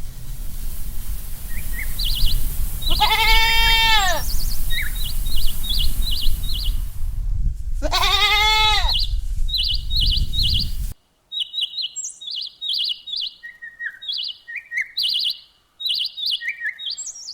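A sheep bleating twice, two long wavering calls about five seconds apart over a low rumble, with small birds chirping. About eleven seconds in the rumble cuts off, and only quick, repeated small-bird chirps remain.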